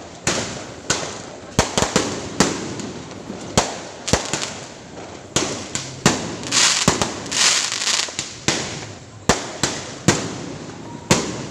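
Fireworks that failed to lift off, exploding near the ground in a rapid, irregular series of sharp bangs, about one or two a second. A denser crackling hiss comes about six to eight seconds in.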